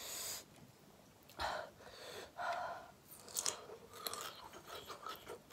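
Close-miked chewing: a run of short, wet eating sounds and mouth clicks during a mukbang of spicy ramen with sausages.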